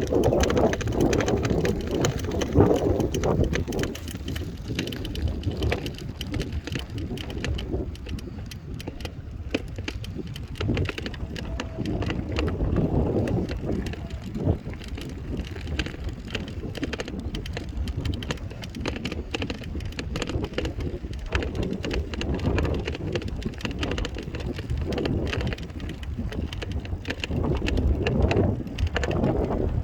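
Bicycle ride over a rough path: wind rumbling on the microphone, with constant small rattles and clicks.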